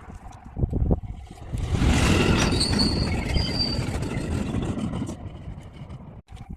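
Freight train passing: a rush of wheel-on-rail noise swells about a second and a half in, with brief high-pitched wheel squeals, then fades away.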